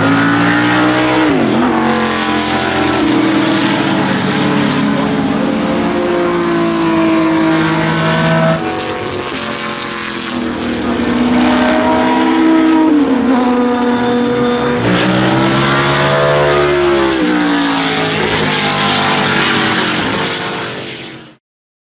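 Shadow Can-Am race cars' V8 engines running hard at high revs. The pitch climbs and drops sharply at each upshift, about a second in and again near 14 and 17 seconds. The sound dips around the middle, builds again, and cuts off near the end.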